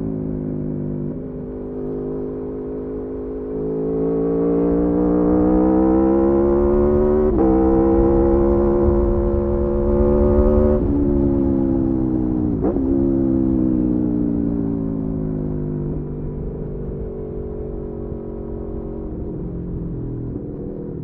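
Sport motorcycle engine accelerating hard, its pitch climbing with a brief step about seven seconds in as it shifts up. The throttle closes sharply around eleven seconds, a quick rev blip follows shortly after, and then the engine winds down slowly as the bike slows.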